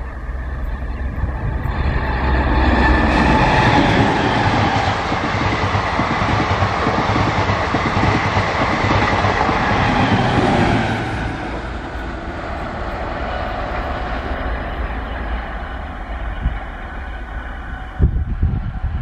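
A diesel-electric multiple unit (DEMU) passing close at speed: the diesel power car's engine and wheels clattering over the rails build to their loudest as it goes by. The sound then drops to a quieter steady rumble about halfway through.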